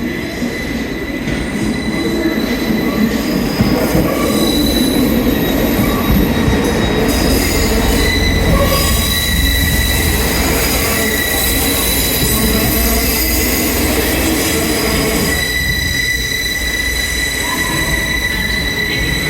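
A train running on the rails with its wheels squealing: steady high-pitched squeal tones over a low rumble.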